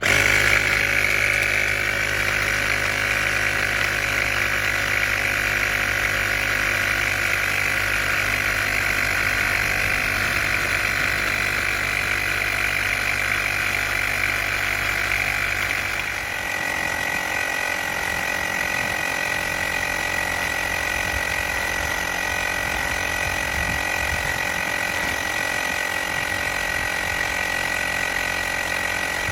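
Portable battery-powered tyre inflator's small compressor running steadily as it pumps up a car tyre, its tone shifting slightly a little past halfway. It stops abruptly at the end, the automatic cut-off on reaching the preset pressure of 36 psi.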